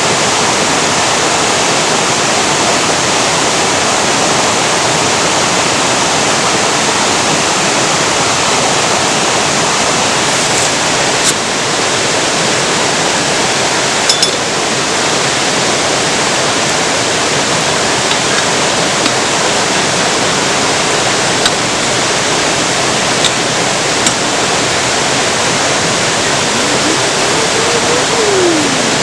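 Rushing river water: a loud, steady rush of flowing water with no break.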